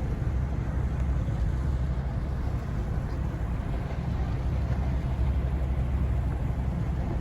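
Steady low rumbling noise with no separate events, even throughout.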